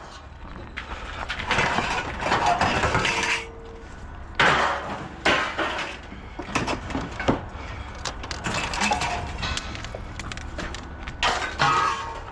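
Scrap pieces being handled and moved: irregular knocks, clatter and scraping.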